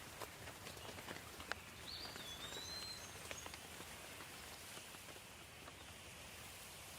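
Soft rain: a faint steady hiss with scattered drop ticks, mostly in the first half. A bird gives one short whistled call, rising then level, about two seconds in.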